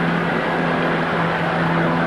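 Passenger train running past the platform and away, a steady rolling noise with an even low hum under it.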